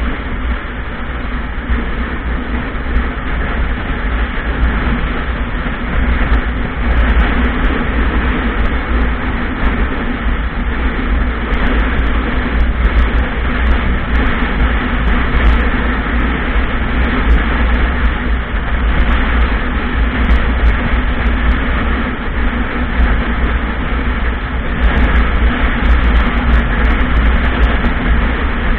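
Motorcycle running steadily while being ridden, with a constant low rumble underneath and no marked changes in speed.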